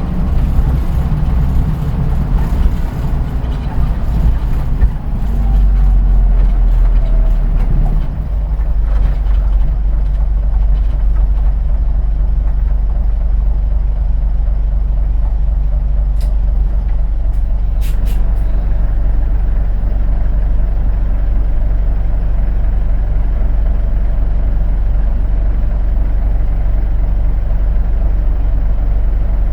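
Inside a diesel route bus: a whine falls in pitch as the bus slows to a stop over the first several seconds, then the engine idles steadily. Around the middle come a few short hisses of compressed air from the air brakes.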